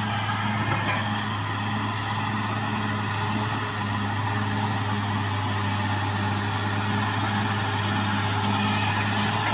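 CAT D6R XL bulldozer's diesel engine running steadily under work, with a continuous low drone.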